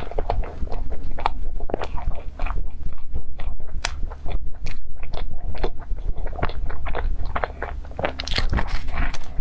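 Close-miked chewing and biting of a cream puff with a crisp cracked crust: irregular wet mouth clicks and soft crunches, over a steady low hum.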